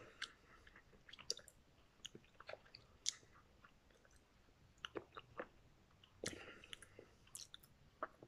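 Faint, intermittent chewing of instant cup noodles eaten with chopsticks: scattered short mouth clicks and smacks, with a slightly longer cluster about six seconds in.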